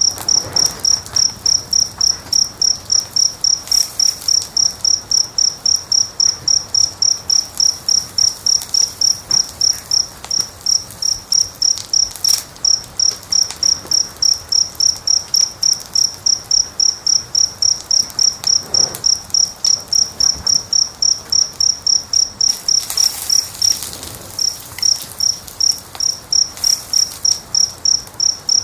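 A cricket chirping steadily, about three short high chirps a second, with a brief pause near the end. Faint crackles of a wood fire sound now and then underneath.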